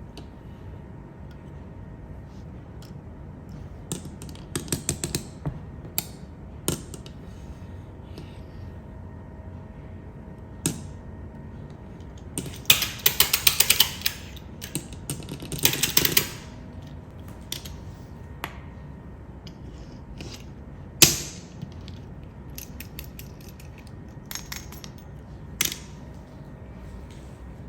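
Irregular clicks and rattles of small hard objects being handled, with a longer clattering run around the middle and one sharp knock a little later that is the loudest sound.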